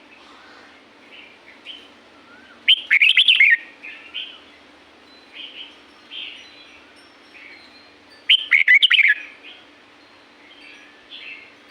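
Red-whiskered bulbul singing: two loud, short warbling phrases about five and a half seconds apart, with softer chirps between them. A faint steady low hum runs underneath.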